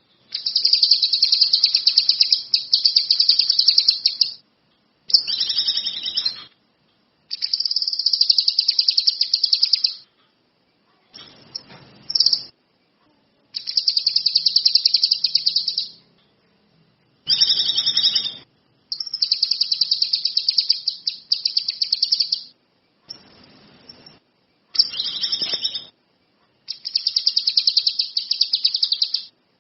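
Songbird singing in about ten bursts of fast, high trilling chatter, each one to three seconds long, with short pauses between them; a few of the bursts are softer.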